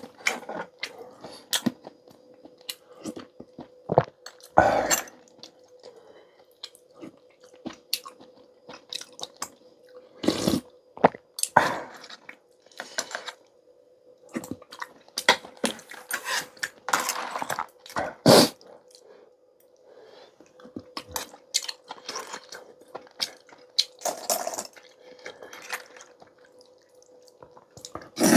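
Close-miked eating sounds from a bowl of clam and seaweed noodle soup: wet slurps and chewing, broken by many small clicks and knocks of utensils against the bowl and dishes. A faint steady hum runs underneath.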